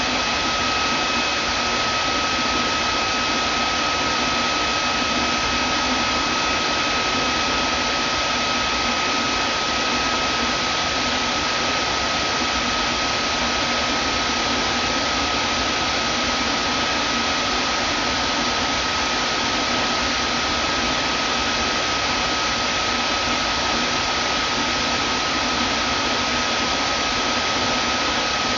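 Vacuum cleaner running steadily: an even rushing hiss with a steady high-pitched whine through it.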